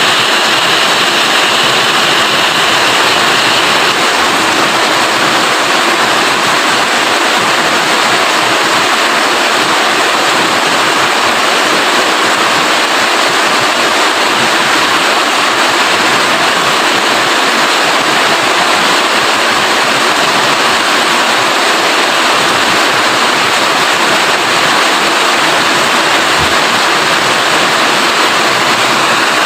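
Steady rain: a dense, even hiss of falling water that does not let up.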